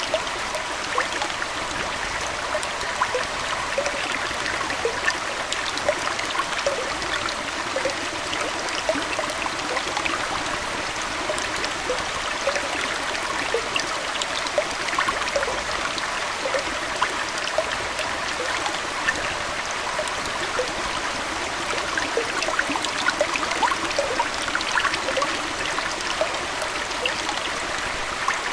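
Aquarium water flowing and trickling steadily, with a constant scatter of small droplet sounds.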